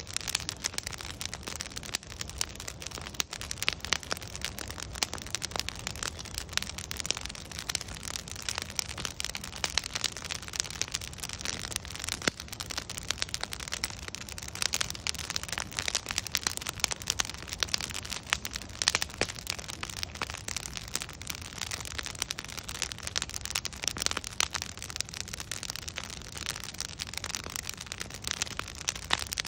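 Wood fire of burning logs crackling steadily: dense, irregular pops and snaps over a soft hiss and low rumble of the flames.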